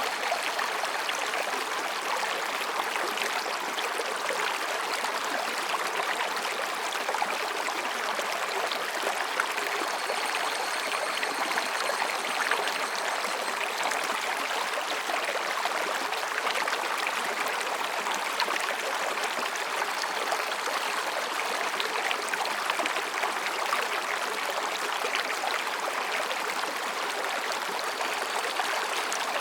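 Mountain stream babbling steadily over rocks. Faint, distant calls of higurashi cicadas are heard in the middle.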